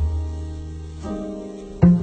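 Jazz piano trio playing a slow ballad, with the plucked double bass standing out: a low held note, a higher note about a second in, then quick plucked notes near the end.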